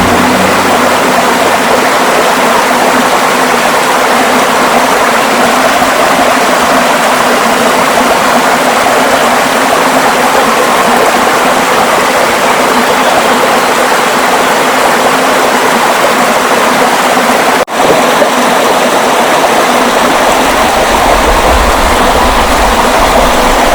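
Waterfall: a loud, steady rush of falling water with no rhythm. The sound drops out for an instant about three-quarters of the way through, and a low rumble joins in near the end.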